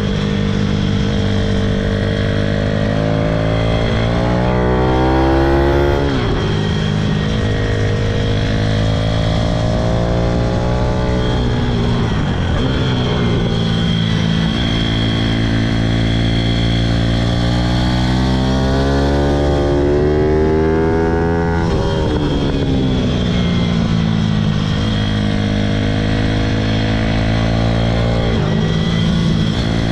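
Pitom pit bike's single-cylinder four-stroke engine being ridden hard. It repeatedly revs up, rising in pitch, then drops off sharply, most clearly about 6 and 21 seconds in.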